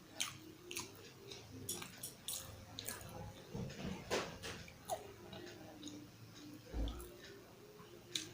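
Close-miked wet eating sounds: chewing with irregular sharp lip smacks and clicks from eating dal, rice and curry by hand. A low thud comes just before the end.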